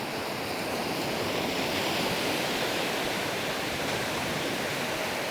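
Sea surf washing onto the beach: a steady rush of breaking waves.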